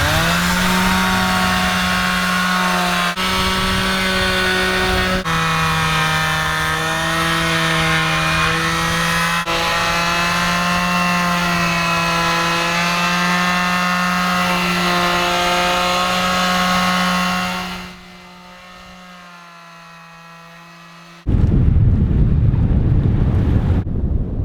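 Power sander running against a boat hull with 80-grit paper: a steady motor whine over a gritty hiss, its pitch dipping slightly a couple of times under load. It turns much quieter after about eighteen seconds, and a few seconds later wind noise on the microphone takes over.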